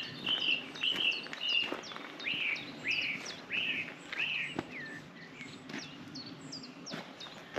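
Songbirds singing: one bird repeats a loud, arched whistled note about eight times over the first four seconds or so, while other birds add thin high chirps throughout. A few light ticks sound in between.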